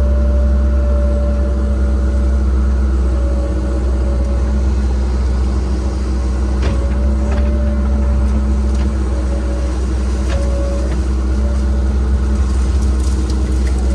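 Cat 306 excavator's diesel engine running steadily under work, with a hydraulic whine that comes and goes and a few faint sharp clicks.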